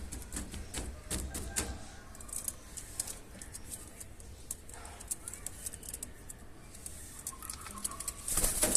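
Pigeons moving about, with scattered sharp clicks and taps, and a louder brief flurry near the end.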